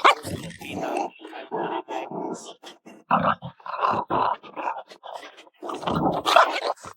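Puppy growling in a string of short, rough bursts that stop abruptly at the end.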